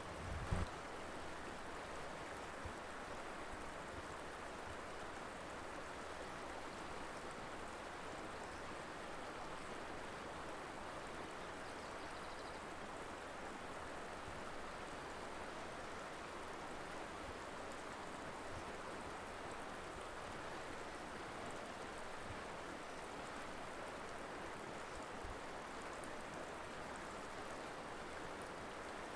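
Colorado River flowing steadily, an even rushing of water. A brief low thump sounds about half a second in.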